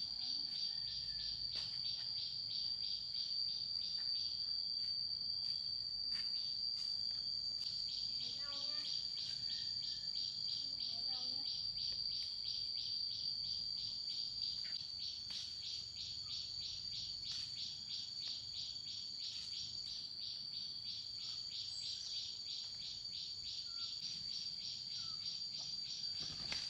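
Insects calling in chorus: a steady high-pitched trill with a rapid pulsing layer over it that runs without a break, with a few faint bird chirps now and then.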